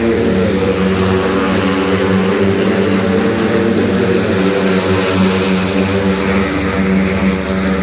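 Small racing motorcycle engines running as a loud, steady drone whose pitch wavers slightly.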